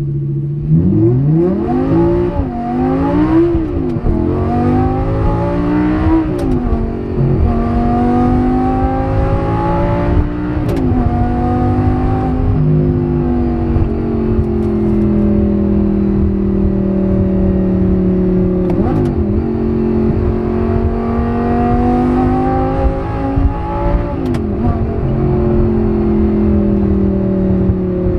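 Audi R8's V10 engine with a race exhaust, heard from inside the cabin. It idles briefly, then pulls up through the revs about a second in. Through the rest of the drive the pitch climbs and drops back several times as the gated manual gearbox is shifted, with steady cruising between, and there are a few sharp clicks.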